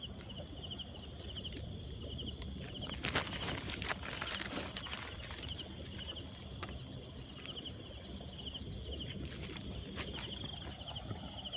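Insects chirping in a steady chorus of rapid pulsed trills, with rustling and handling noises about three to five seconds in.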